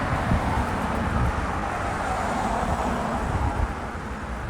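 Car passing on the road, its tyre and engine noise slowly fading away, over low wind rumble on the microphone.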